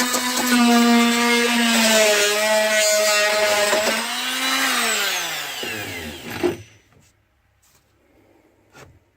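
Oscillating multi-tool with a bimetal blade cutting through nails, a loud steady buzzing whine. About halfway through it is switched off and winds down, its pitch falling until it stops.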